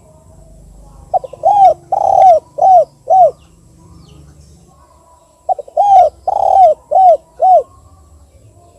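Spotted dove cooing in the two-'kuk' pattern: two phrases about four seconds apart, each a quick short lead-in followed by four arched coos, the second coo the longest.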